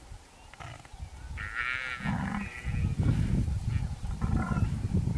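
Wild animal calls: a high wavering cry about one and a half seconds in, followed by a steady run of low rumbling calls that grow louder toward the end.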